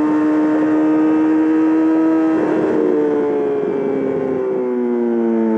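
2020 Yamaha R6's inline-four running through a full M4 exhaust at high revs under way. The pitch climbs slowly, breaks off about halfway through, then falls steadily as the revs drop.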